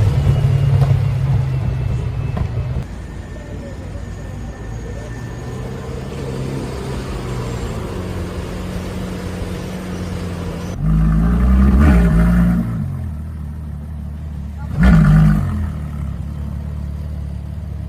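Car engines running: a loud engine fades out in the first few seconds, then a car idling steadily is revved twice in short blips, about eleven seconds in and again about fifteen seconds in.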